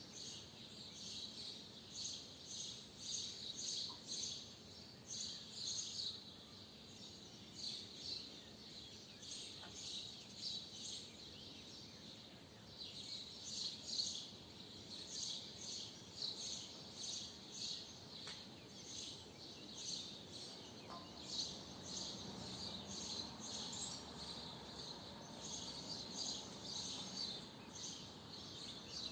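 Swallows twittering: many quick, high chirps in clusters, one after another, over a faint background hum.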